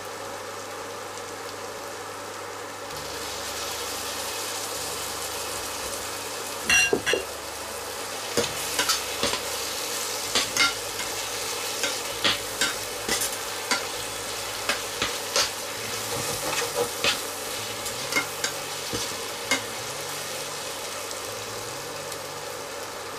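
Aubergine fry sizzling in a non-stick pan while a metal slotted spoon stirs it. From about seven seconds in, the spoon scrapes and clicks against the pan again and again.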